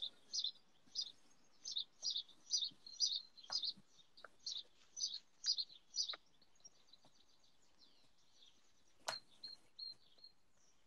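A small bird chirping over and over, about two sharp, high chirps a second, turning to softer, quicker notes after about six seconds. A single sharp click sounds about nine seconds in.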